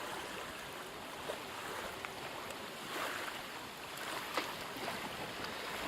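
Steady wind and sea noise on a windy shoreline with the tide in, heard through a camcorder microphone covered by a homemade wind-noise muffler, with a few faint clicks.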